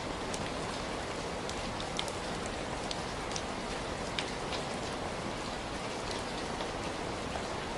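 Heavy rain falling steadily, a dense even hiss with scattered louder drop hits.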